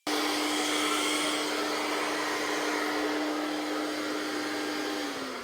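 Shop vacuum running with a steady whine, switched off about five seconds in, its pitch starting to fall as the motor winds down.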